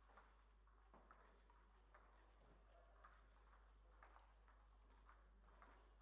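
Faint, sharp clicks of a table tennis ball striking table and bats, about one a second and unevenly spaced, over a low background hiss.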